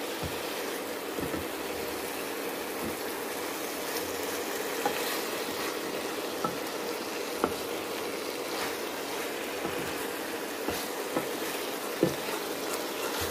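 Eggplant and vegetables sizzling in oil in a frying pan while a wooden spatula stirs them, with a few light knocks of the spatula against the pan, the sharpest about twelve seconds in.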